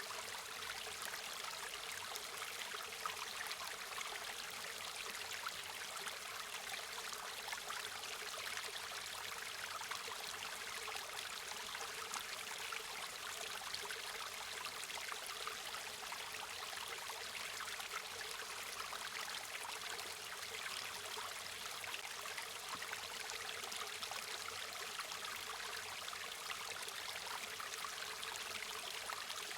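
A small river or stream flowing steadily over stones, a constant rushing with fine splashing and bubbling.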